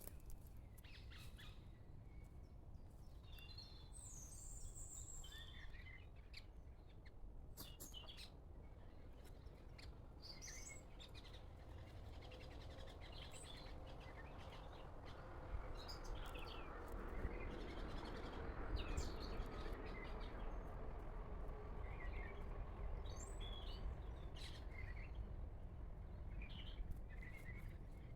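Wild birds chirping and calling in short scattered notes, with a few faint clicks. A low rumble grows louder about halfway through.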